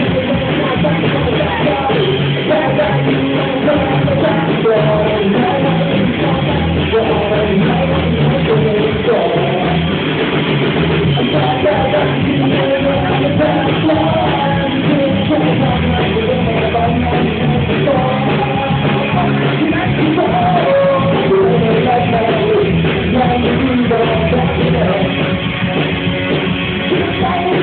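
Live rock band playing a song with a singer, in a loud, poor-quality recording of the gig.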